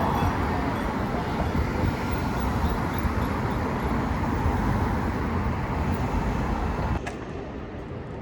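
Steady rumble and noise of passing vehicles, cutting off abruptly near the end to a quieter background.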